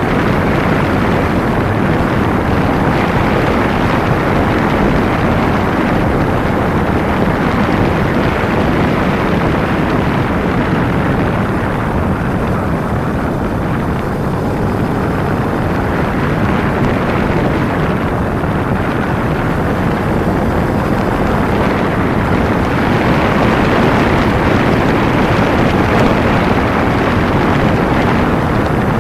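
A Kawasaki Ninja 250 motorcycle riding along with steady wind rush on the microphone and engine noise, easing slightly for a while and picking up again later.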